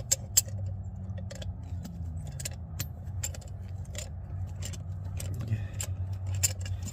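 Irregular sharp metallic clicks and ticks, a few a second, as hand tools work a freshly loosened rusty threaded part of a drum brake, over a steady low hum.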